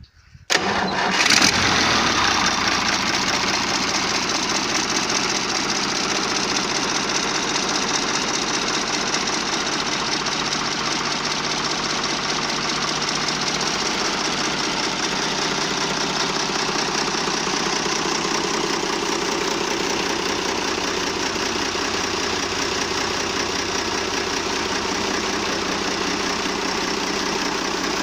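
Deutz BF6L913 air-cooled six-cylinder turbo diesel starting about half a second in, flaring briefly, then settling into a steady idle.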